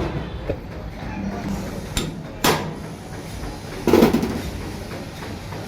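A few sharp metallic knocks and clanks from work on the car's alternator, loudest about two and a half and four seconds in, over a steady workshop background noise.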